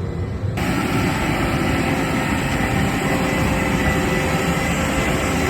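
Case IH Magnum tractor pulling an LB436 HD high-density baler, running steadily while baling: a dense, even machine noise with a faint steady whine. About half a second in, the sound abruptly gets brighter and fuller.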